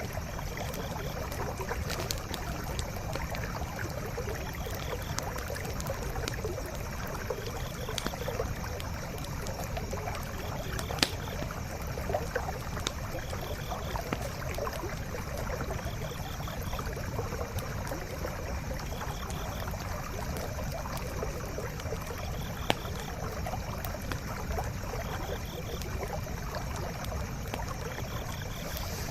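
Steady rush of a flowing forest stream, with a wood campfire crackling over it and now and then a sharper pop, the loudest a little under halfway through and again about three quarters of the way through.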